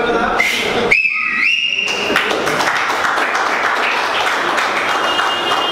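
A shrill whistle is held for about a second and a half, stepping up in pitch partway. It is followed by a crowd clapping, with some further high whistles near the end.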